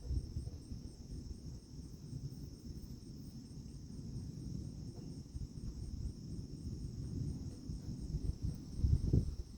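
A chorus of insects trilling steadily at a high pitch, one part pulsing evenly, over a low rumbling noise that swells briefly near the end.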